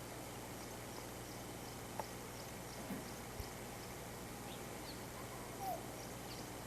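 Faint outdoor ambience: a steady hiss with small high chirps from birds or other animals repeating through it. A few light knocks come about two and three seconds in, and a short, slightly louder animal call comes a little before the end.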